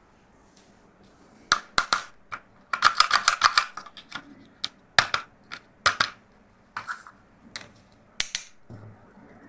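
Hard plastic toy pieces being handled, giving irregular sharp clicks and clatters, with a quick run of them about three seconds in.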